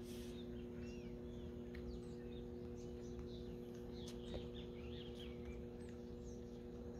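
Small birds chirping faintly, many short rising and falling calls scattered throughout, over a faint steady low hum.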